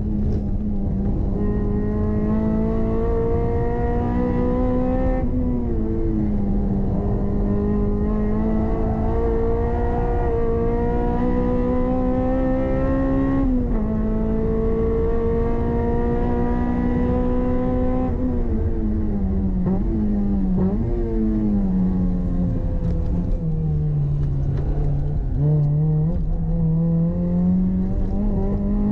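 Toyota MR-S's swapped-in 2ZZ-GE 1.8-litre four-cylinder engine driven hard on track, heard from inside the cabin. Its note climbs steadily and drops sharply about five and again about thirteen seconds in, sinks lower and wavers through the second half, then climbs again near the end.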